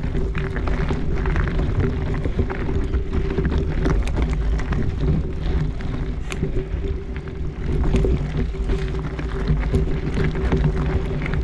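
Riding noise on a rocky dirt trail: a continuous low rumble with a steady hum, broken by frequent small clicks and rattles as the bike goes over rough ground.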